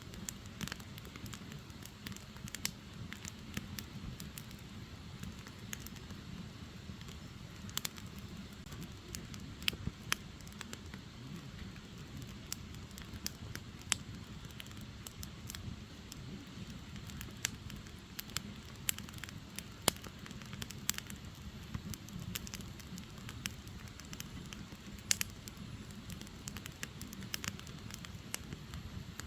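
Firewood burning: a steady low rush of flame with irregular sharp crackles and pops from the logs.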